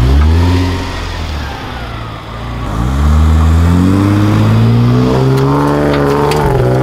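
Jeep Wrangler JK engine revving off-road: a quick rise in pitch at the start that falls away, then a second climb about three seconds in that holds higher, with further brief rises near the end.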